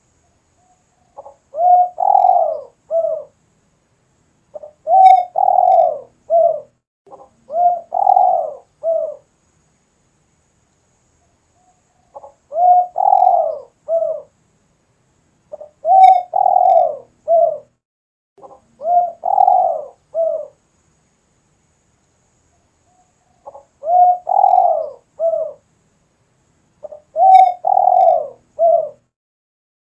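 Spotted dove cooing steadily: short phrases of three or four coos, the middle one loudest, repeated about eight times with pauses of one to several seconds between.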